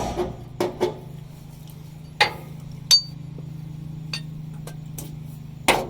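Sharp metallic clinks and knocks from fuel pump parts and hand tools being handled during fitting of the pump, about five separate strikes spread out, with a steady low hum underneath.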